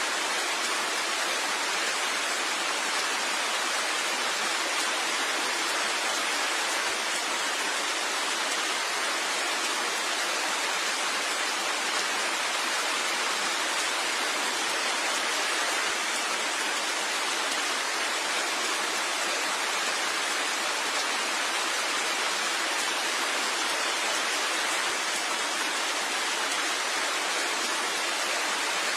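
Steady rain: an even, unchanging hiss with no separate drops or thunder standing out.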